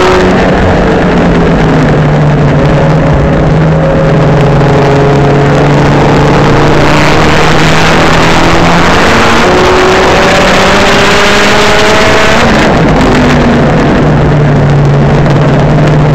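Maptun-tuned Saab 9-3 Sport race car's turbocharged B207 four-cylinder engine driven hard on track. Its note climbs slowly through long pulls and drops sharply about twelve and a half seconds in, then pulls again.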